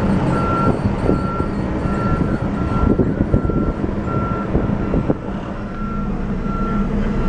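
A vehicle running with a steady low rumble, over which a single high electronic beep repeats about twice a second.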